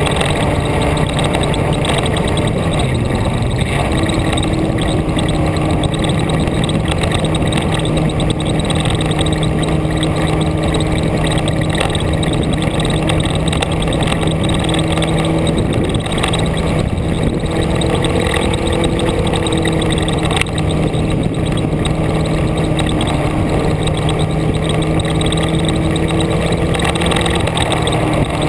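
Vehicle engine running steadily under way, heard onboard with a heavy rush of road and wind noise; its pitch dips and picks up again about three to four seconds in and shifts again past the middle as the speed changes.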